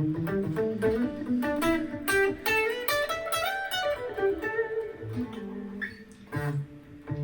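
Gibson ES-335 semi-hollow electric guitar played clean through an amp on the middle pickup position, single notes and chords with a nasal 'quack' to the tone.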